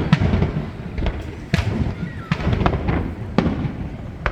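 Aerial fireworks going off: a run of about seven sharp bangs at irregular intervals, with a low rumble between them.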